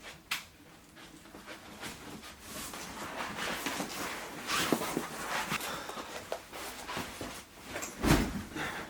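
Rustling and handling noises in a small room, with scattered clicks and one heavy thump near the end.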